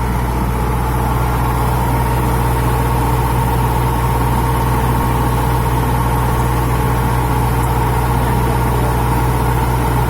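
Pile drilling rig's engine running steadily, a constant low drone with a steady higher tone over it.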